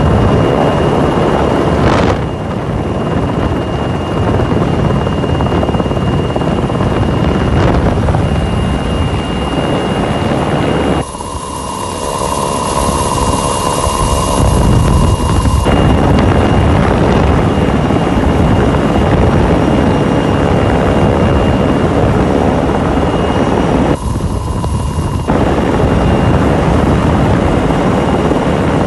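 Rescue helicopter's rotors and turbine running loud and steady, with a constant high whine. The sound changes abruptly several times.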